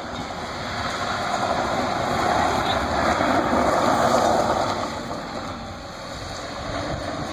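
A car being drifted past, its engine and tyre noise swelling to a peak about four seconds in and then fading away.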